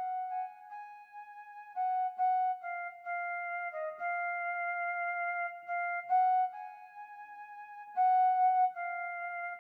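Music: a slow solo melody on a flute-like wind instrument, one held note at a time with no accompaniment.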